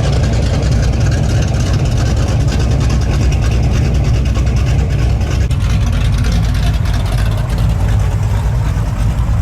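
A car engine with a loud exhaust, running steadily at low revs with a deep, even pulse.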